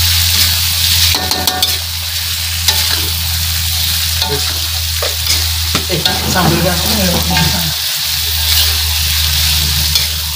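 Tofu and salted fish stir-fry sizzling steadily in a hot pan, with a spatula stirring and scraping against the pan now and then, most clearly about a second in. A steady low hum runs underneath.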